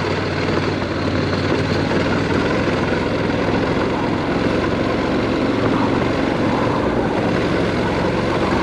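Motorcycle riding steadily over dirt: engine running at an even pace under wind and tyre noise on the microphone.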